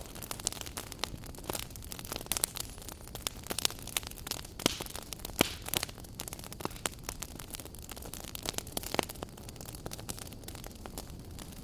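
Wood fire burning in a fireplace: a steady low rumble and hiss of flame with sharp, irregular crackles and pops several times a second.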